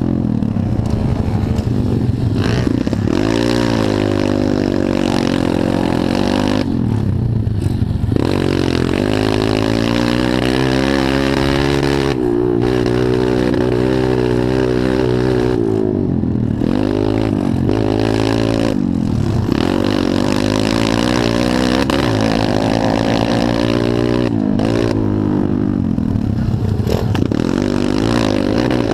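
Pit bike engines racing on a motocross track: the engine pitch climbs under throttle, drops briefly at shifts or throttle-off every few seconds, then climbs again.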